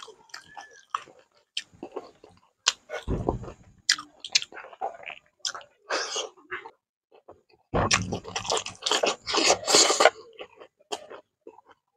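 Close-miked eating sounds of a man eating rice and fish curry by hand: wet chewing, lip smacks and some crunching, in quick irregular clicks. There are louder, denser stretches about three seconds in and again around eight to ten seconds in.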